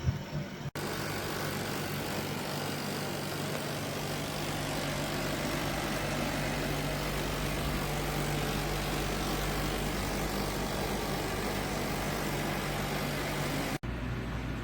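SereneLife SLPAC7UK portable air conditioner running: a steady fan rush over a low compressor hum. The sound drops out sharply for a moment twice, once near the start and once near the end.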